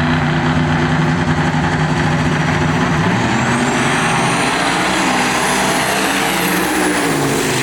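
Truck or SUV engine at full throttle on a drag-strip pass, running loud and steady. A thin high whine rises about three seconds in, holds, and falls away near the end.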